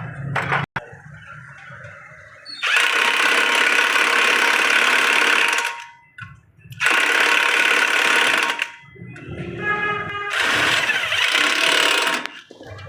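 A power tool running in three bursts of about two to three seconds each, with short pauses between them.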